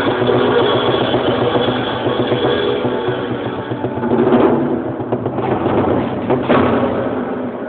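A small live band playing a worship song together, with strummed chords sounding about halfway through and again near the end, then fading as the song winds down. The recording is muffled and distorted.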